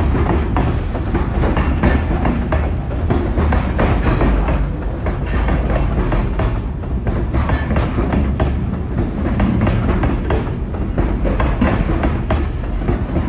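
Freight train of covered hopper cars passing close by: steel wheels rumbling on the rails with repeated clacks as the trucks cross the rail joints.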